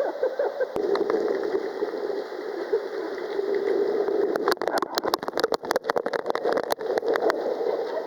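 Water rushing and churning around a waterproof camera riding down a water slide, a steady noise, with a dense run of sharp knocks and clicks from about four and a half seconds in.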